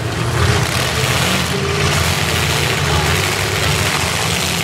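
Several demolition derby cars' engines running at once, a loud, steady, dense din.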